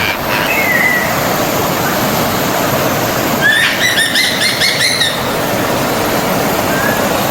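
Stream of water flowing steadily, with a bird singing a quick series of repeated notes about halfway through and a few short chirps near the start and near the end.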